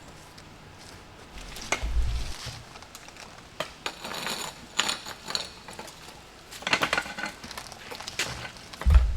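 Irregular clattering, scraping and knocking, with a dull thump about two seconds in and another near the end.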